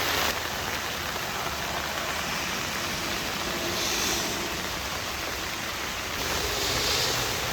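Heavy rain coming down hard, a steady hiss that changes a little about a third of a second in and again about six seconds in.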